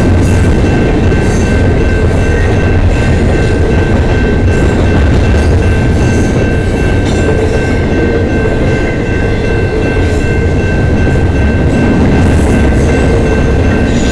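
Double-stack intermodal container cars of a freight train rolling past at close range: a loud, steady rumble of wheels on rail with scattered clicks. A steady high-pitched tone runs through it.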